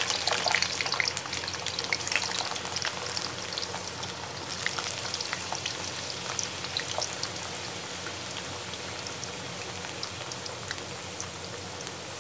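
Round potato slices deep-frying in hot oil: a dense sizzle full of fine crackles. It is loudest over the first few seconds, then settles to a steadier, quieter sizzle.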